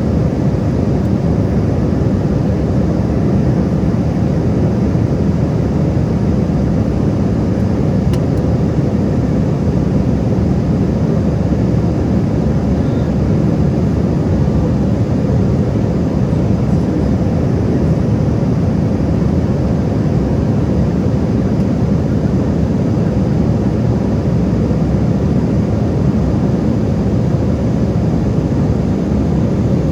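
Steady low rumble of an airliner's engines and rushing air, heard from inside the passenger cabin, with a faint constant hum running through it.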